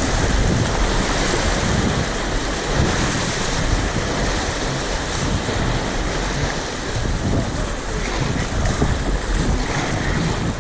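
Whitewater of a river rapid rushing and churning steadily around an inflatable kayak as it runs the rapid, with a low rumble of wind on the microphone.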